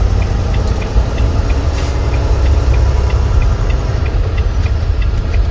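Semi truck's engine and road noise, a steady low rumble heard inside the cab while driving, with a regular run of light ticks about three times a second.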